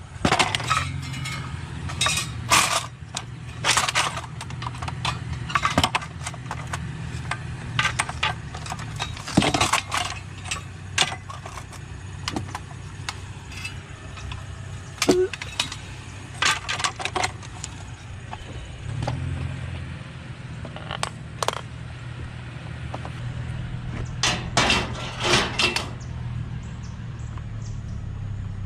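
Scrap being handled and loaded: scattered clanks, knocks and rattles of hard objects in bursts. A low steady hum runs underneath and drops out for several seconds in the middle.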